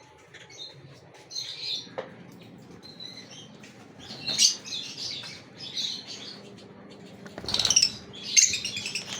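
Gouldian finches chirping, with short high calls coming in scattered bursts that grow denser near the end. A brief, loud rustling burst comes about seven and a half seconds in.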